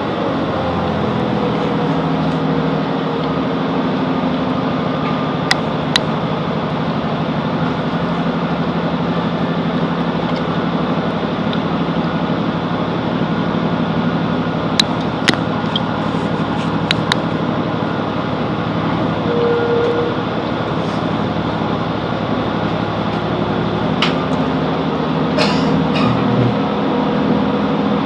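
Class 165 Networker Turbo diesel multiple unit's engine running steadily, with a few sharp clicks now and then. About 24 seconds in, the engine note grows louder and fuller as the train pulls away from the platform.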